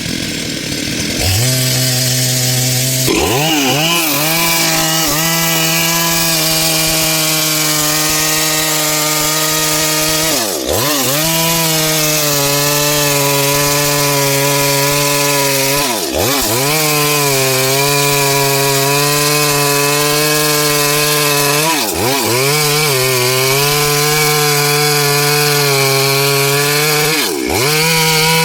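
Stihl MS382 two-stroke chainsaw cutting into a dry log at high revs under load. The engine climbs to speed in the first few seconds, then holds steady, dipping briefly and picking back up four times.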